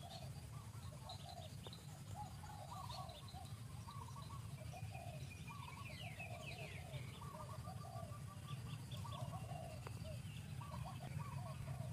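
Birds calling: a steady run of short, arched notes repeating several times a second, with quick high chirps mixed in, over a steady low hum.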